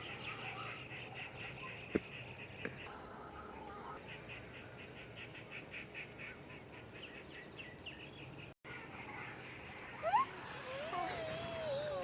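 Outdoor evening ambience: a steady high-pitched insect drone with rapid pulsing insect chirps, and a couple of sharp clicks. Near the end a wavering animal call glides up and down in pitch.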